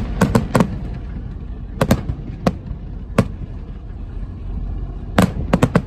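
Fireworks bursting in a show: sharp cracking bangs in irregular clusters, about a dozen in all, over a steady low rumble.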